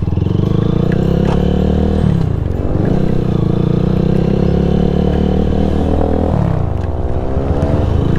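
Small motorcycle or scooter engine running while riding. Its pitch drops twice, about two seconds in and again past six seconds, as the rider eases off, then climbs back up.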